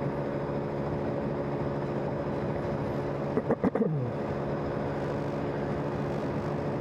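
Steady drone of a vehicle's engine and road noise while driving at a constant speed. About halfway through comes a short louder sound that falls in pitch.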